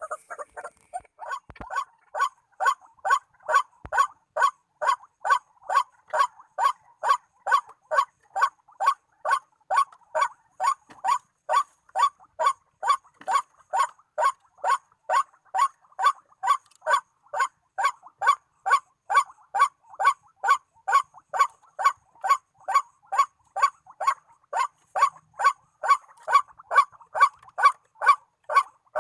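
White-breasted waterhen call, the repeated "ruak" note sounding evenly about twice a second, starting about a second in.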